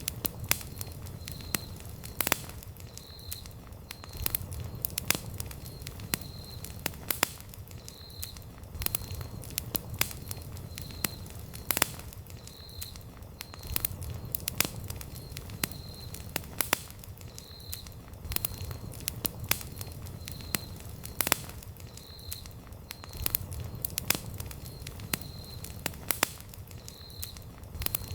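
Wood campfire crackling and popping, with irregular sharp snaps over a low rumble that swells and fades. A faint high chirp repeats about once a second throughout.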